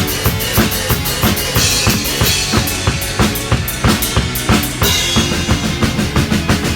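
Acoustic drum kit played along to a song: a fast, driving bass drum and snare pattern with cymbal crashes about a second and a half in and again near five seconds.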